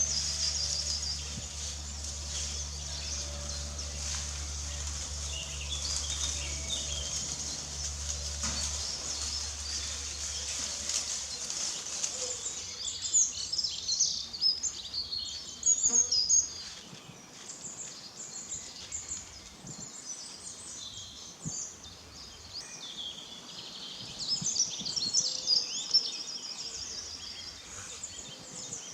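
Woodland birds singing and chirping. A low steady hum runs underneath for the first ten seconds or so, then stops.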